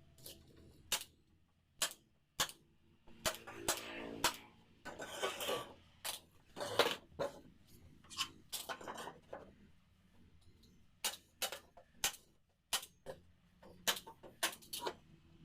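Irregular sharp clicks and knocks, with a few short scraping sounds in between, from wooden frame pieces being handled and worked.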